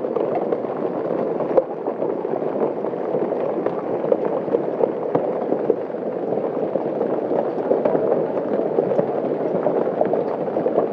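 Heavy hail coming down: a dense, steady clatter of hailstones striking the yard, plants and pool, with one sharper impact about a second and a half in.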